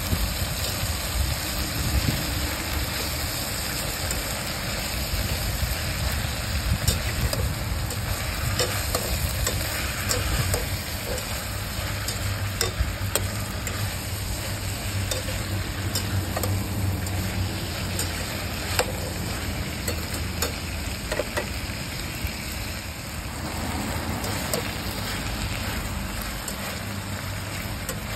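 Frog meat frying in a pan while being stirred: a steady sizzle with scattered clicks and scrapes of the utensil, over a low rumble.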